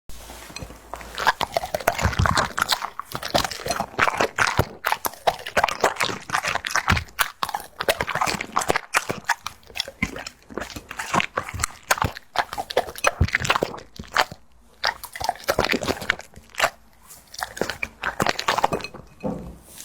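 Dog lapping milk and eating noisily: a fast, irregular run of wet mouth clicks and crunches, with a couple of short pauses.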